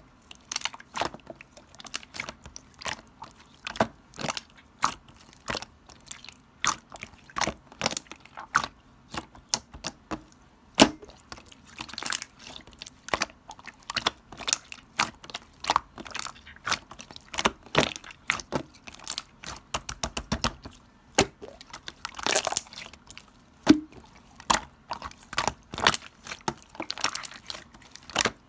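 Slime being squished and pressed by hand, making sharp, wet clicks and pops at an uneven pace of about two or three a second.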